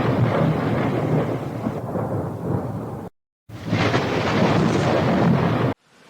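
Heavy rain pouring loudly in a storm, with a deep rumble under the hiss of the downpour. The sound cuts to silence for a moment a little after three seconds, comes back just as loud, and stops abruptly near the end.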